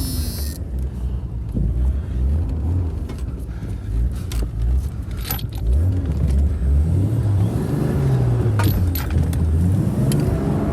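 Vehicle engine running low and rough, its pitch rising and falling as it is revved under load, with a few sharp metallic clinks.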